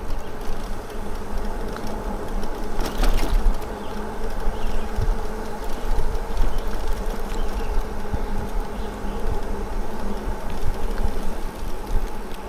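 An e-bike's hub motor whines steadily under power, over a low rumble of wind and tyres. A short rattle comes about three seconds in.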